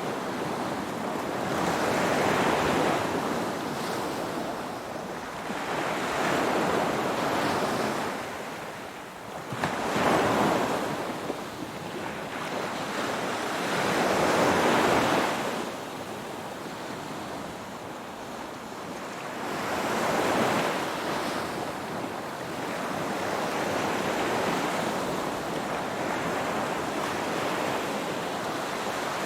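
Ocean waves breaking and washing ashore, a rushing surge that swells and fades about every four to six seconds, the loudest near a third of the way through.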